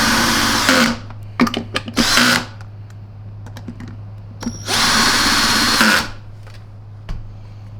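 Power drill/driver running in short bursts as screws are driven: a run right at the start, a brief one about two seconds in, and a longer run about five seconds in, with small clicks of handling between.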